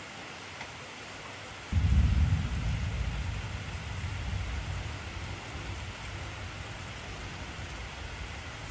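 Steady heavy rain hissing, with a sudden clap of thunder about two seconds in whose low rumble dies away slowly over the next several seconds.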